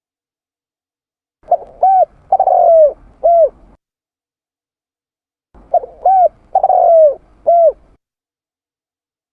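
Spotted dove (tekukur) cooing: two identical phrases about four seconds apart, each a run of about four coos, the third one longer, with dead silence between, as in a looped bird-trapping lure recording.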